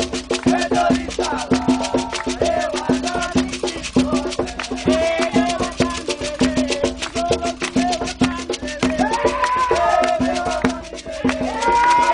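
Candomblé ceremonial music: drums and percussion beating a fast, steady rhythm under voices singing.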